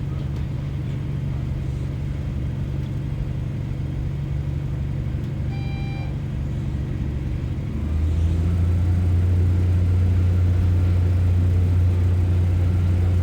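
Underfloor diesel engine of a British Rail Class 144 Pacer railbus running steadily. About eight seconds in, its note drops lower and gets louder. A brief beep sounds a little before that.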